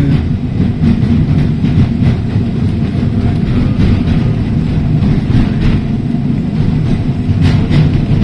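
Heritage electric tram running along the tramline, heard from on board: a steady low rumble of wheels and running gear on the rails, with occasional faint clicks.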